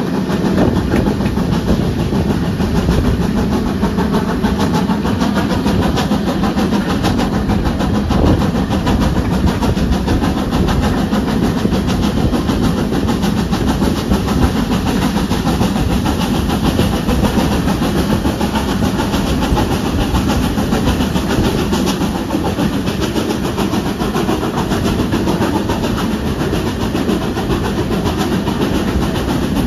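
Steam-hauled passenger train running at speed, heard from an open carriage window: a steady rush of wheels on the rails with clattering over the track, and wind rushing past.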